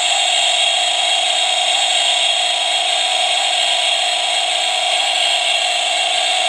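Electronic power-tool sound effect from a Black+Decker Junior toy workbench: a steady, hissy whir of a pretend saw or drill played through the toy's small speaker.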